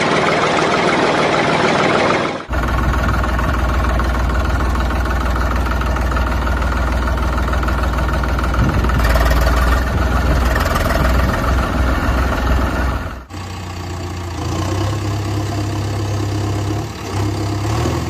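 Vehicle engine running, in sections cut sharply together: a mid-pitched rattling engine sound, then a deeper, heavier engine sound from about two and a half seconds in, changing again to a lighter engine sound near thirteen seconds.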